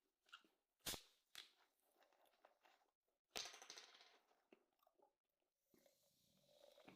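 Quiet eating sounds: soft chewing with small clicks, and two sharper clicks about a second and three and a half seconds in, the second trailing off in a brief hiss.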